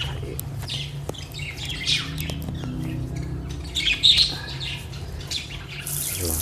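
Birds chirping and calling in short bursts. Near the end, water starts spraying from a garden-hose nozzle, a steady hiss.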